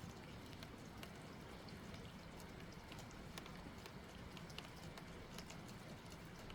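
Steady light rain, with single drops ticking irregularly, a few a second, against nearby surfaces.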